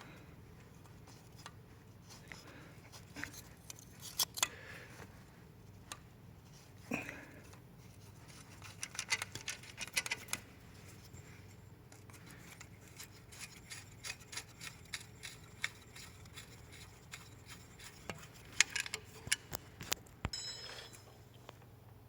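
Hand and tool work on engine parts: scattered sharp clicks and light taps with short scraping and rubbing sounds, in clusters, over a faint steady hum.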